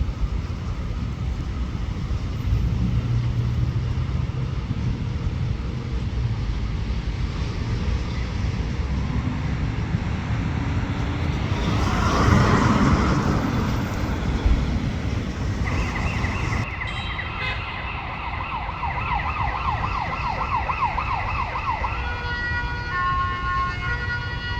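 Road traffic rumble with a vehicle passing about halfway through, then an emergency vehicle's siren in the second half, warbling rapidly before switching to stepping tones near the end.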